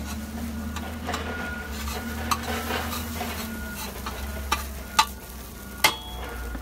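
Hash browns sizzling in a pan on a propane gas cooker while a metal spatula stirs and scrapes them. Several sharp clacks of the utensil on the pan, the loudest about five and six seconds in, over a steady low hum.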